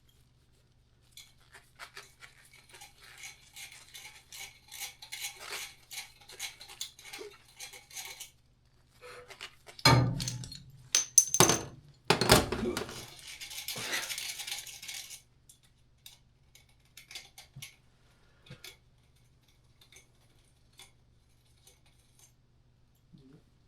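Metal tools and parts clinking and rattling for several seconds, then a few loud knocks and a scraping rush about ten seconds in, over a faint steady hum.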